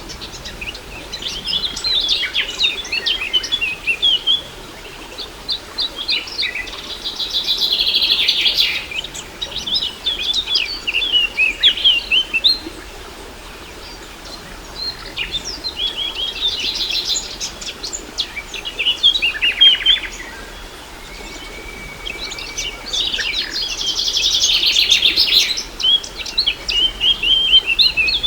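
Songbirds singing and chirping in quick, high trilled phrases, one after another with short pauses between them, over a faint steady background hiss.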